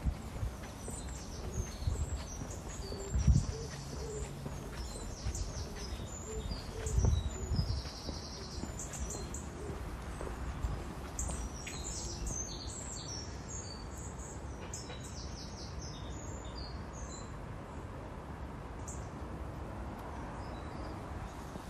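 Birds chirping and singing, with short high calls and trills throughout. A few low thumps come in the first several seconds.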